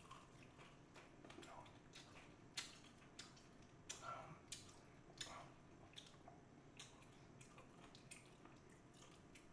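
Faint eating sounds: scattered wet mouth clicks and smacks of someone chewing, a cluster of them about halfway through, over quiet room tone.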